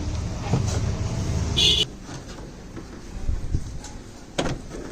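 Low rumble from the washing machine's drum, stopping about two seconds in with a brief high squeak, then a few light knocks.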